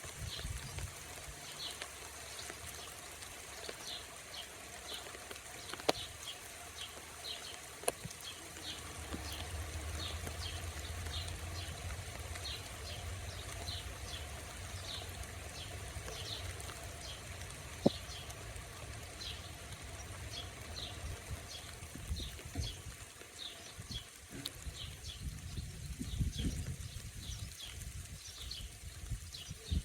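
A songbird repeating short high chirps, a couple a second, over a steady outdoor hiss. A low rumble comes and goes, and a few sharp ticks stand out.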